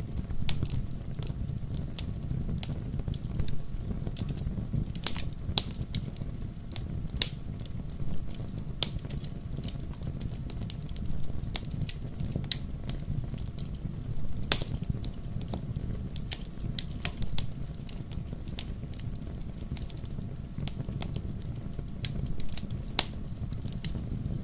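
Wood bonfire burning: a steady low rumble of the flames with irregular sharp crackles and pops from the burning wood.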